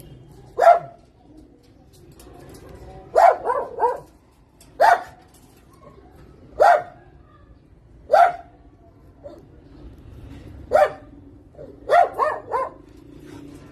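A dog barking repeatedly, with single barks every second or two and a couple of quick runs of three.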